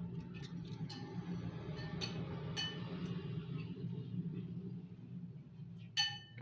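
Scattered light taps and clicks with a few ringing clinks of metal or glass, the loudest and sharpest near the end, over a steady low hum.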